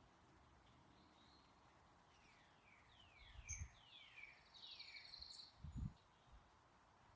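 Faint songbird singing a run of about six quick falling whistled notes, ending in a short buzzy note, over a light outdoor hiss. Two brief low thumps come in, one mid-way and one near the end.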